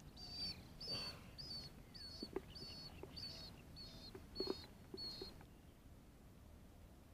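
A bird calling a short, high note over and over, about nine times a little over half a second apart, stopping about five seconds in. A couple of faint knocks fall among the calls.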